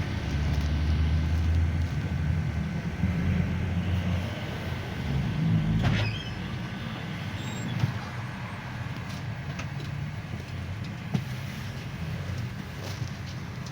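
GAZelle Next minibus heard from inside the passenger cabin while driving: low engine drone and road noise, the engine louder at first and easing off about halfway, with a few sharp clicks and rattles in the second half.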